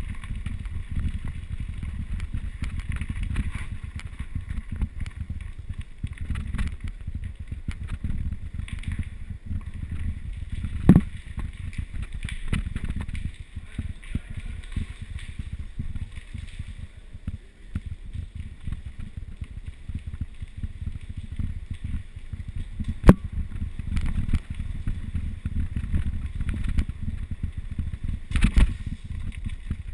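Mountain bike riding down a rough trail: wind buffeting the microphone and the bike rattling over the ground, with sharp knocks about eleven seconds in, about twenty-three seconds in, and near the end.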